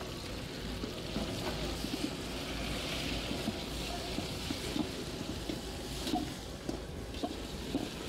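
Chopped tomatoes and onions sizzling steadily in hot oil in a large metal pot, with a metal ladle scraping and knocking lightly against the pot as they are stirred.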